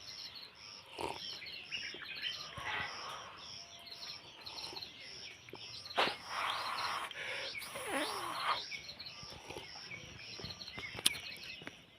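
Birds chirping and singing outdoors: a high note repeats evenly about twice a second throughout, with other short sliding chirps over it and louder calls around six and eight seconds in.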